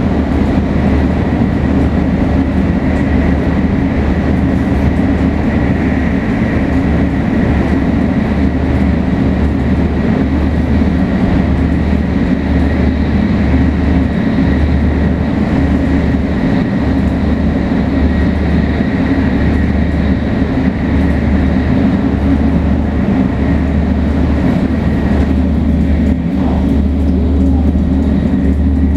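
Shinkansen 500 series electric train running steadily at speed, its Toshiba GTO-VVVF traction drive and motors giving a steady high whine over a constant low rumble of the wheels on the track.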